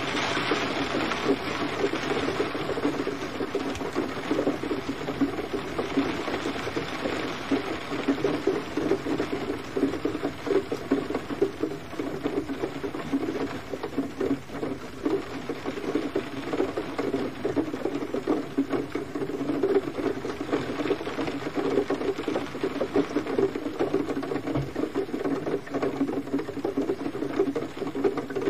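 Steady rain pattering on a surface: a dense, continuous stream of small drop hits with no let-up.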